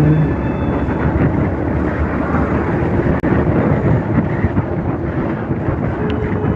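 Wind rushing steadily over the microphone of a motorcycle riding at speed, with the bike's engine and tyre noise underneath.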